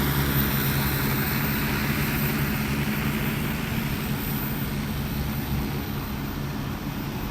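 Multirotor agricultural spraying drone with a 15-litre tank in flight: a steady propeller hum and rush that gradually gets quieter.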